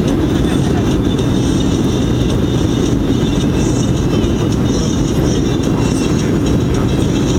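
Steady cabin noise inside a Boeing 737-800 on final approach: a constant low rumble of the engines and the airflow over the fuselage.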